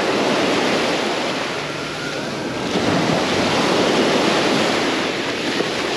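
Sea waves washing onto the beach: a continuous rush of surf that eases about two seconds in and swells again a second later.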